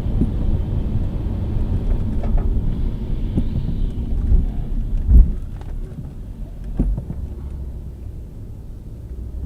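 A car driving, heard from a dashcam: a steady low road and engine rumble, with a sharp loud thump about five seconds in and a smaller one near seven seconds.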